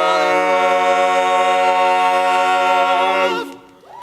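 Male barbershop quartet singing a cappella, holding the final chord of the song steady, then cutting it off together about three and a half seconds in.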